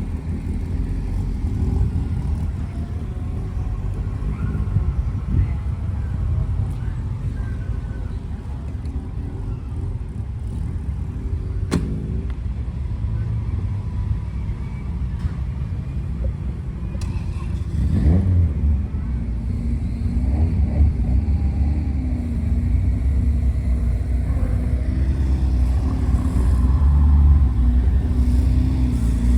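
A car engine running with a low rumble. It grows louder about two-thirds of the way through, settling into a steady engine note.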